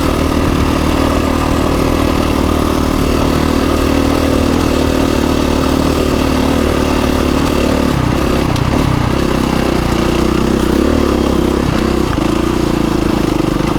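KTM 350 EXC-F dirt bike's single-cylinder four-stroke engine running as the bike is ridden off-road. Its note holds steady at first, then shifts up and down from about eight seconds in.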